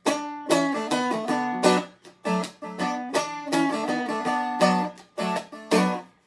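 Seagull Merlin M4, a four-string dulcimer-style instrument, strummed with a flatpick through a chord progression with quick changes, a strum roughly every half second, ending on a last strum that rings out and fades just before the end.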